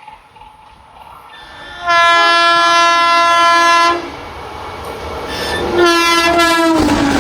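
Indian Railways train horn sounding two blasts, a long one of about two seconds and then a shorter one whose pitch drops at its end. The train's running noise swells as it comes close and is loud near the end.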